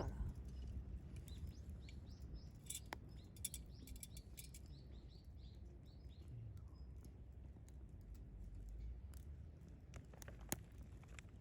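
Wood campfire crackling with scattered sharp pops, one louder pop near the end, over a steady low rumble. A small bird chirps in a quick run of short high notes about two to five seconds in.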